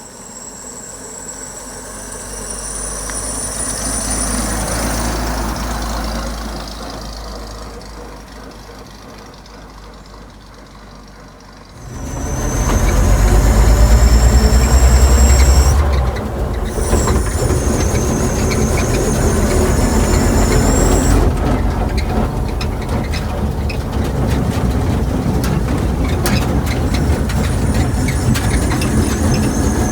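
Engine of a 1935 Chevrolet half-ton pickup running: the sound swells and fades over the first several seconds, then jumps abruptly louder about twelve seconds in and stays steady.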